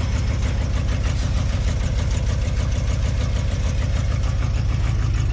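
A 1973 Ford F-250's 360 FE V8 running steadily, shortly after a cold start following two months of sitting.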